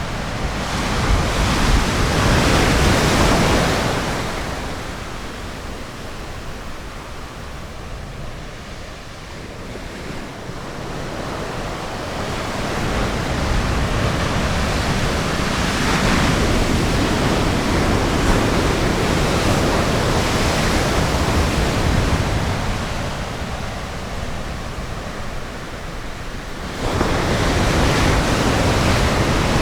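Ocean surf on a beach: waves breaking and washing in, the rushing noise swelling and easing over several seconds. Near the end it abruptly jumps louder.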